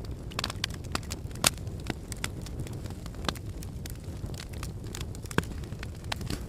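Wood logs burning in a fireplace, crackling with frequent irregular sharp pops over a low steady rumble of the flames; the loudest pops come about a second and a half in and again just past five seconds.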